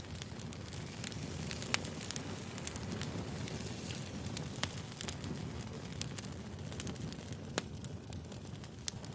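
Firewood burning: a steady low rumble of flames with irregular sharp crackles and pops from the burning wood, a few of them louder.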